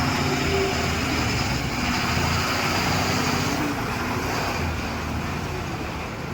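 JCB backhoe loader's diesel engine running under load, with a loud, steady rushing noise over it that eases a little about three and a half seconds in.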